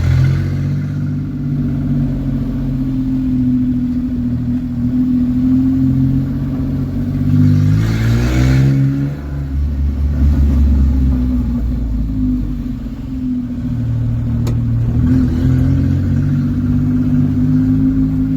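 Asia Towner's engine idling through a bare exhaust pipe with no muffler, revved once about eight seconds in and dropping back to idle.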